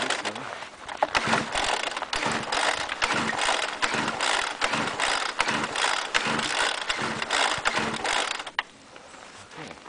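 Homelite two-stroke leaf blower being pull-started in about 0°F cold. The recoil starter cord is yanked over and over, about twice a second, with no steady running. The owner puts the failure down to the choke not staying on.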